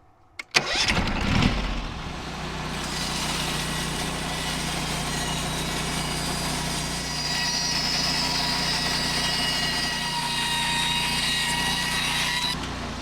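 Gas engine of a portable band sawmill starting about half a second in, then running steadily at speed with a high hiss over the engine note, dropping off near the end.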